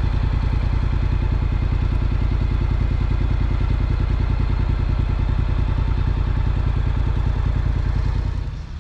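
Honda NC750X motorcycle's parallel-twin engine running steadily, its even firing pulses loud throughout; the sound fades out just before the end.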